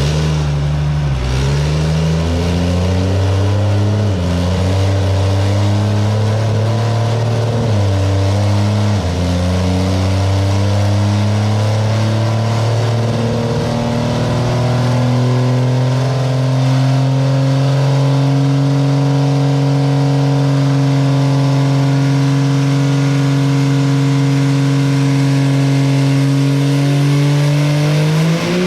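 Cummins diesel engine of a drag truck running on a chassis dyno. Its speed dips and recovers a few times in the first nine seconds, then climbs and holds steady for about a dozen seconds, and rises again sharply near the end.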